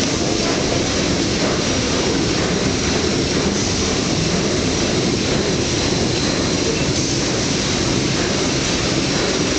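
Engine-room machinery running with a loud, steady din, heaviest in the low end, with a faint high whine over it.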